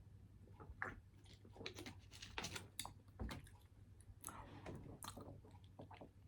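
Faint chewing: a scatter of soft, irregular mouth clicks as food is eaten.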